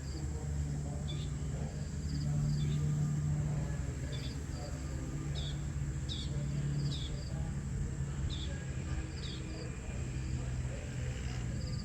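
Small birds giving repeated short, high, down-slurred chirps, over a steady low hum.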